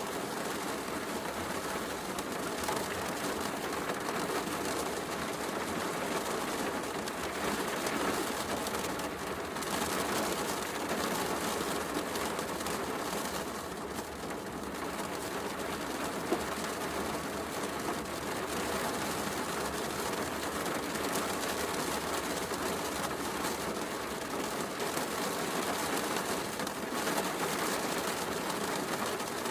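Heavy rain falling steadily, mixed with the crackle of a wood fire in a fireplace. One sharper click stands out about sixteen seconds in.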